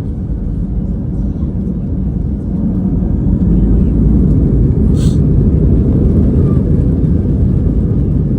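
Cabin noise of an Airbus A320-214 with CFM56 engines, heard from a rear window seat on the takeoff run: a loud, deep rumble that grows louder about three seconds in as the aircraft accelerates. A single sharp click or rattle sounds about five seconds in.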